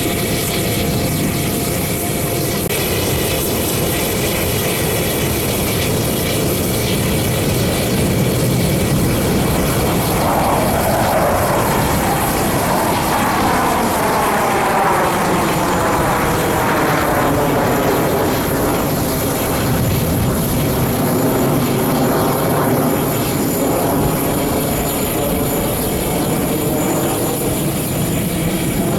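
Jet fighters of an aerobatic display team running loud overhead in a steady rushing noise. From about a third of the way in, a swelling, sweeping tone builds and fades as the jets fly past.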